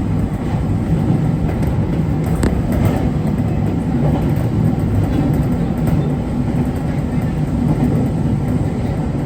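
JR Kyushu 811 series electric train running along the line: a steady rumble of wheels on rail heard from inside the front of the car, with a single sharp click about two and a half seconds in.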